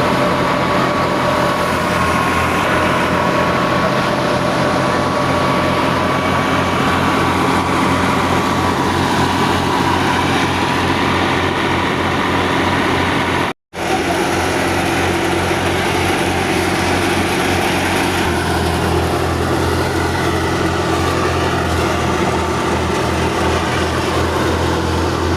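Al-Ghazi tractor's diesel engine running steadily. The sound drops out for an instant about halfway, and from about three quarters of the way through the engine note becomes deeper and heavier.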